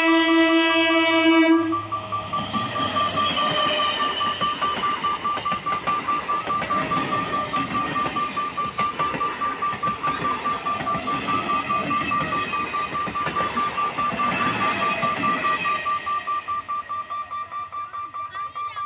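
An electric multiple-unit local train passing over a level crossing, its wheels clattering over the rail joints for many seconds and fading near the end as it moves away. Over it, a rapidly pulsing electronic warning beep from the crossing sounds steadily throughout. At the very start, a long steady horn note cuts off after about a second and a half.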